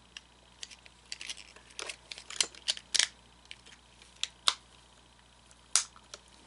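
Irregular clicks and light taps of small hard plastic parts being handled while an animatronic's hip gear mechanism is worked on, with several louder snaps in the middle and one near the end.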